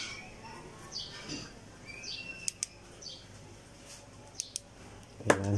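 Small birds chirping in short high calls about once a second, with a few sharp clicks around the middle. Near the end comes a brief low vocal sound, the loudest thing here.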